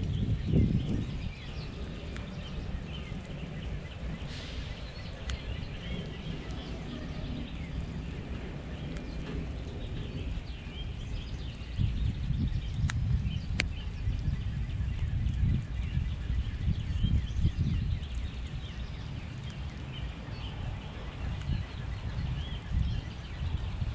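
Small backyard birds chirping and twittering, many short calls throughout, over a steady low rumble that grows louder about halfway through.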